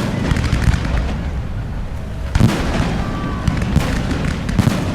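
Aerial fireworks going off in rapid succession: a dense run of booms and crackling bangs over a continuous rumble, with a fresh volley of sharp bangs about two and a half seconds in.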